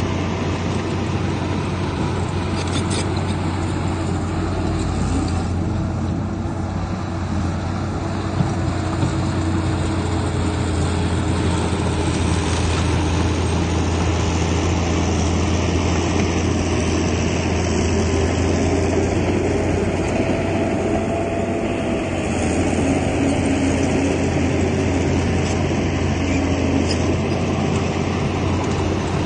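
Diesel engine of heavy earthmoving machinery running steadily, with a low drone that swells and eases slightly in level.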